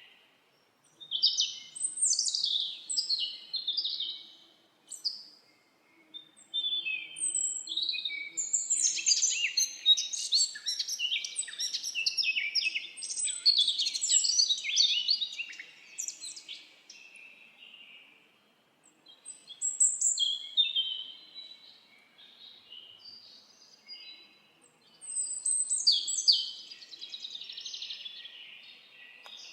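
Several songbirds singing and chirping in quick, high-pitched overlapping phrases, pausing briefly a few times.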